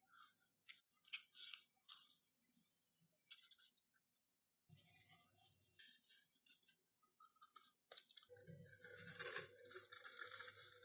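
Faint, intermittent short scratchy strokes and light clicks of hand work on foam-board and paper build materials, with a low hum under the later part.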